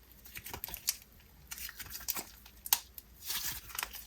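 Jelly slime being handled, pressed and stretched, giving irregular sticky crackles and small pops.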